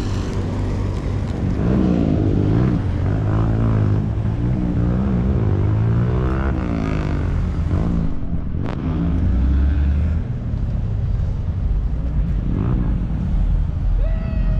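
Vehicle engines running with a steady low rumble, revving up and down several times in the first half; a sharp click about nine seconds in.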